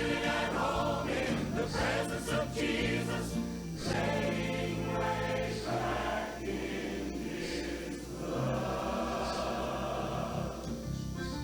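A choir singing a gospel hymn with instrumental accompaniment.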